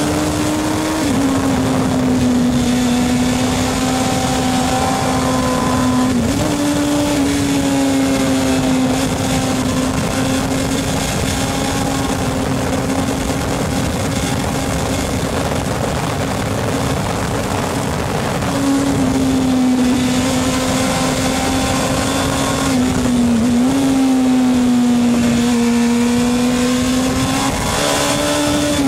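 Racing motorcycle engine running at high revs, its pitch holding steady and dipping briefly now and then, as on a gear change or when easing off.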